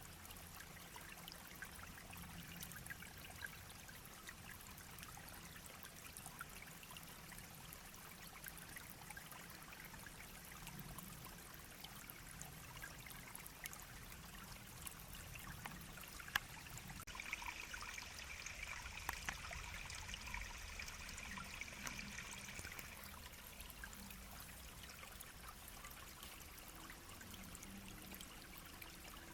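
Small brook babbling and trickling, a steady fine rush of running water with many small splashes. A brighter, higher steady sound joins for about six seconds a little past the middle.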